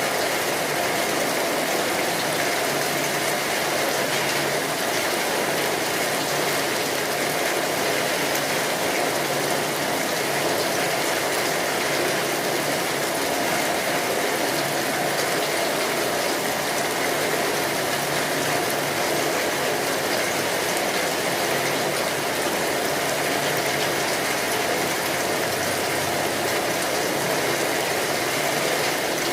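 Steady rainfall, a dense, even texture of countless drops that holds constant throughout.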